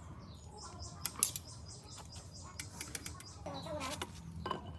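A small bird chirping in a rapid, even series of high notes, about five a second, with a few sharp clicks about a second in.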